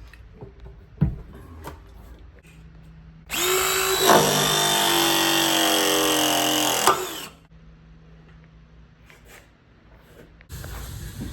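Power drill running for about four seconds, its pitch sagging slightly as it works, after a sharp click about a second in.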